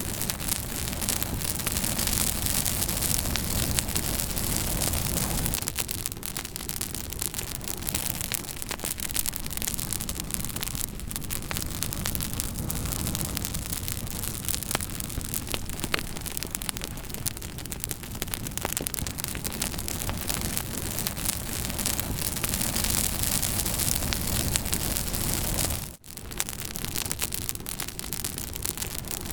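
Campfire crackling and popping over a steady hiss and low rumble, with a momentary dropout near the end.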